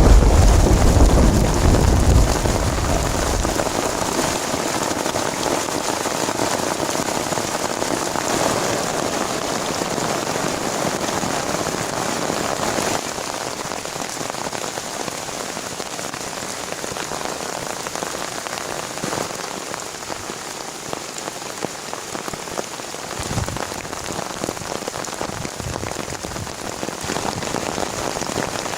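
Heavy rain falling steadily, easing a little over time, with a deep low rumble in the first few seconds that dies away.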